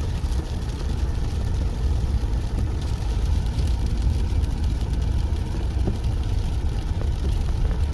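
Steady low rumble of a car's engine and tyres on a snow-covered road, heard from inside the moving vehicle's cabin.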